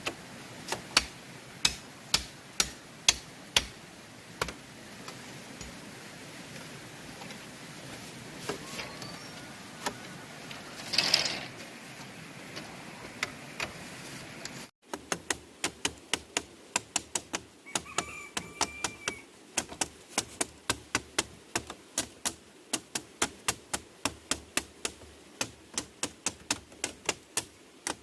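Sharp knocks of a hand tool striking bamboo, in irregular runs at first, then, after a short break about halfway, a fast even series at about three strikes a second.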